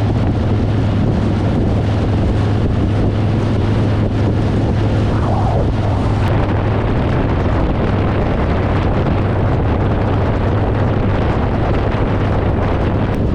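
A vehicle engine running with a steady low drone while moving, under heavy wind noise buffeting the microphone.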